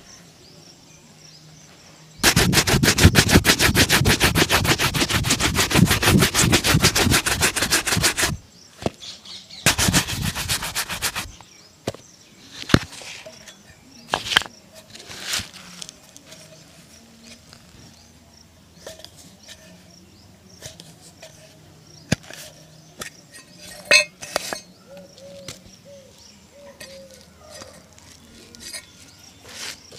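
A shoe-shine brush buffing a shoe in rapid, even strokes for about six seconds, then a second, shorter burst of brushing. Scattered light taps and clicks follow.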